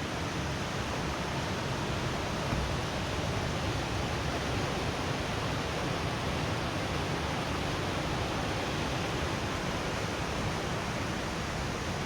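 Putna waterfall: a steady rush of falling water.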